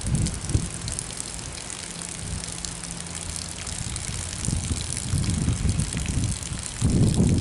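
Water and trapped air sputtering unevenly out of a pressure washer's spray wand, with the nozzle tip off and the engine not running, as air is purged from the hose and pump. The spurting grows louder in the second half.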